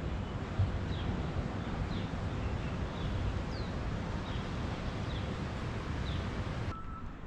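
Birds chirping outdoors, short descending chirps about once a second, over a steady wash of wind and ambient noise. Near the end the outdoor sound cuts off and an electronic beeping tone begins.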